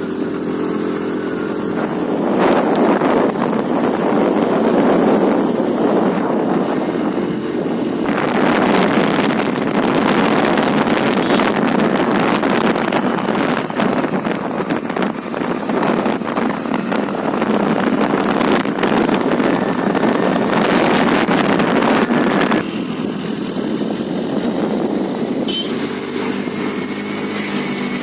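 Honda Dio scooter engine running on the move. For most of the stretch a loud rush of wind on the microphone drowns it, easing near the end so the engine's hum comes through again.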